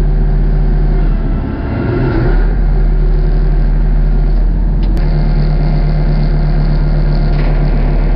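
Hopto H1900 hydraulic excavator's diesel engines running steadily under work. The note wavers and dips briefly about a second and a half in, then picks up again, with a short click about five seconds in.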